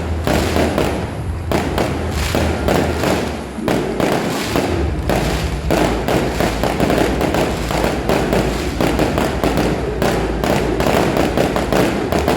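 Fireworks going off in a rapid, continuous barrage of bangs and crackles, several a second.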